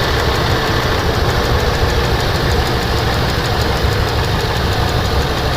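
Ford 5.4-litre V8 idling steadily with the cylinder 6 coil pulled off its plug onto a spark tester, so that cylinder is not firing; the coil is a weak one, the cause of the P0306 misfire.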